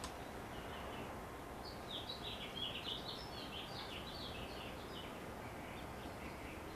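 A bird chirping in a quick run of short notes for a few seconds, over steady outdoor background noise.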